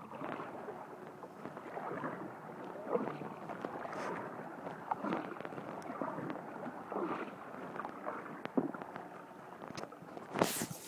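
Kayak paddling: the paddle blades dipping and splashing in the lake water roughly once a second, with water dripping and gurgling, and one louder sudden sound near the end.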